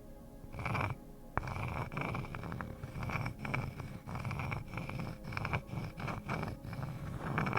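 Close-miked ASMR scratching: a dense, uneven run of small scratches and clicks coming in short bursts.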